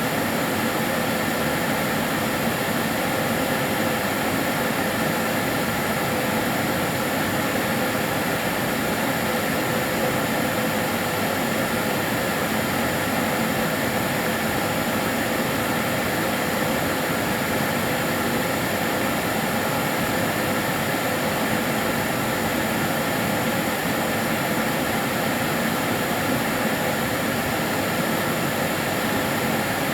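Kärcher DS 6 Premium water-filter vacuum cleaner running steadily: an even motor rush with a few steady whining tones over it, unchanging throughout.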